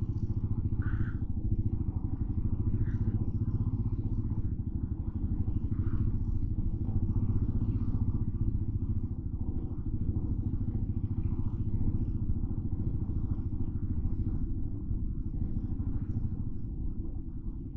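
Motorcycle engine running steadily at low, even speed, heard from the rider's position, with faint street noise above it.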